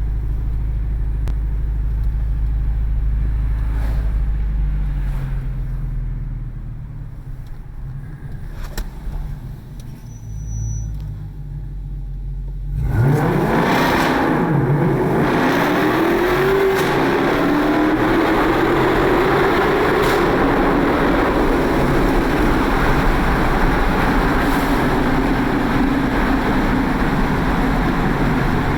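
Chrysler 300 SRT8's 6.4-litre Hemi V8 with an open exhaust: a low, steady rumble while cruising, then about halfway through it is floored and turns suddenly much louder. The engine note climbs, drops at a shift, and climbs again under hard acceleration, then holds loud at high revs.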